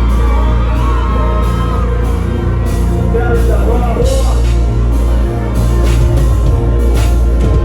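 Loud live music over a concert sound system with heavy, steady bass, and voices singing or yelling over it.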